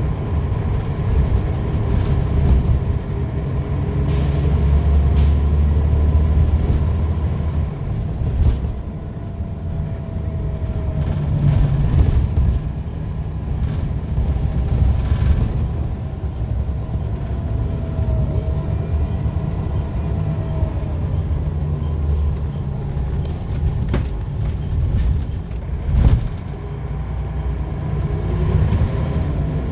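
Scania L94UB bus's diesel engine and ZF automatic gearbox running under way, the engine note rising and falling. A brief hiss of air comes about four seconds in, and a sharp knock comes near the end.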